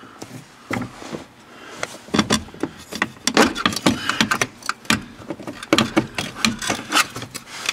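Irregular metal clanks, knocks and rattles as the F150's parking brake assembly is worked loose and pulled out from under the dash, sparse at first and coming thick and fast from about two seconds in.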